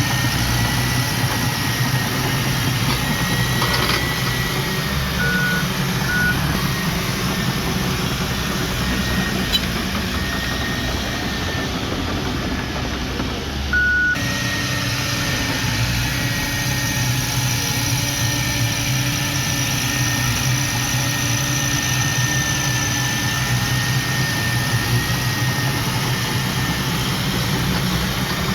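Diesel earthmoving machinery running steadily, with a faint high whine over the engine and a few short beeps.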